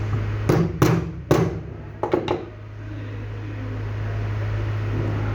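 Five sharp knocks, like tool strikes, in quick succession over about two seconds, over a steady low electrical hum.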